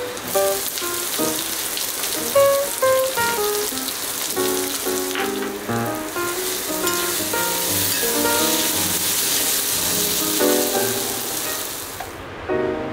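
Onions and masala sizzling as they fry in hot oil in a cast iron kadai, with background music over it. The sizzle cuts off suddenly near the end, leaving only the music.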